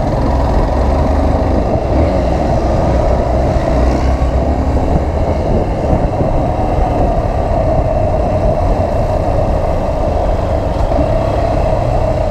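Motorcycle on the move at a steady speed: its engine running under a steady rush of wind and road noise.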